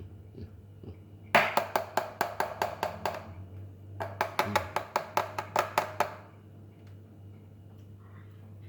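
Two runs of quick, sharp taps, about six a second, each lasting about two seconds with a short gap between them.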